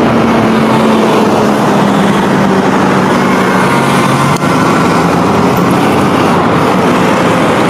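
City bus engine running steadily, a loud even noise with a low drone underneath.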